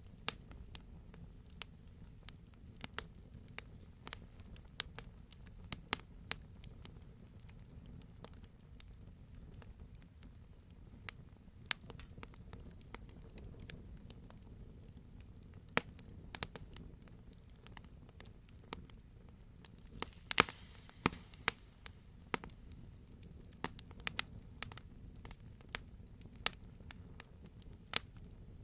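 Wood campfire crackling and popping: irregular sharp snaps over a low steady rush of burning, with a brief cluster of louder pops about two-thirds of the way through.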